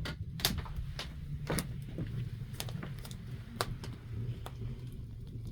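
Wood fire in a wood-burning stove crackling, with sharp, irregular snaps about once a second over a steady low rumble.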